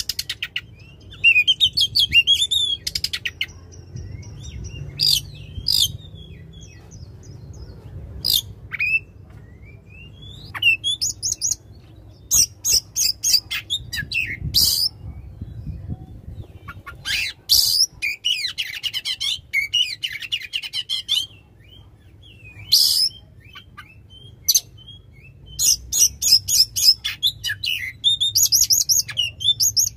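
Oriental magpie-robin (kacer) singing loudly in a varied song of whistled phrases, rapid trills and sharp chip notes, delivered in bursts with short pauses between them.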